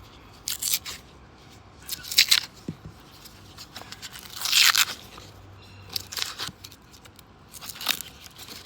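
Paper wrapper of a roll of $2 coins being torn and crumpled, in several short crinkling bursts.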